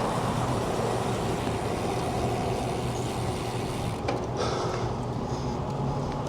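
Road traffic running steadily, with a vehicle engine's low hum.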